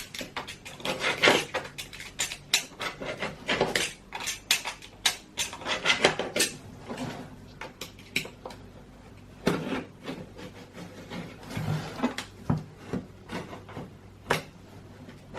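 Utility knife cutting the old silicone sealant around a Tofaş headlight's glass lens: irregular scraping, with clicks and taps of the blade against the lens and housing.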